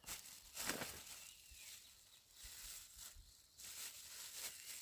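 Irregular rustling and scraping, with a bird chirping faintly twice.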